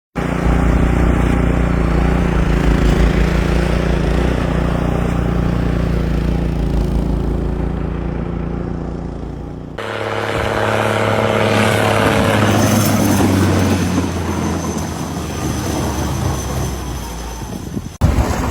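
Vehicle engine running steadily with a rushing noise over it. About ten seconds in the sound changes suddenly to a different steady engine-like hum with more hiss.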